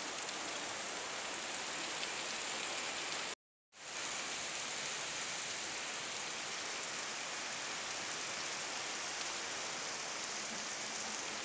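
Steady, continuous rain falling, an even hiss of rain on surfaces, broken once by a split-second gap about a third of the way in.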